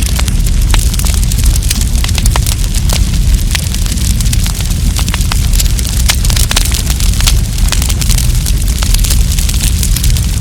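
Wood campfire burning, with dense, irregular crackles and pops over a steady low rumble of the flames.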